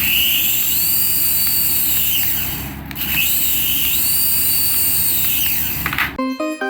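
Toy aircraft whirring with a high whine that rises, holds and falls away, twice in a row. Piano-like music comes in near the end.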